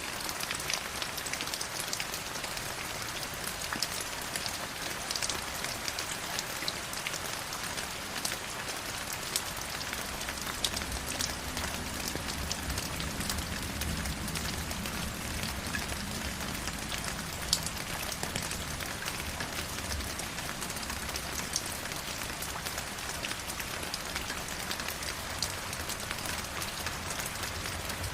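River water flowing and splashing steadily, with many small droplet-like ticks over the rush. A low rumble swells under it in the middle stretch, then eases.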